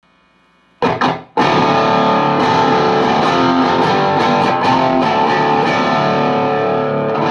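Electric guitar through a high-gain VHT Deliverance D60 valve amp and a 4x12 cabinet: faint amp hum, then two short distorted chugs about a second in, followed by a loud, sustained, distorted chord left ringing.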